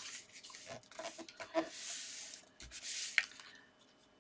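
Paper card stock being pressed and rubbed down by hand to stick a layer in place: small taps and clicks, then two brief papery swishes of a hand rubbing or sliding across the card.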